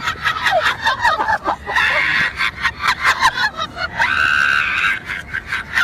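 Rapid high-pitched shrieks and squealing cries played backwards, with one longer held cry about four seconds in.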